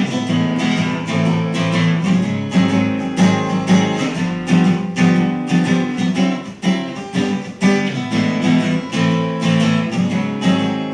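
Acoustic guitar strummed in a steady rhythm, the instrumental opening of a folk song before the vocals come in.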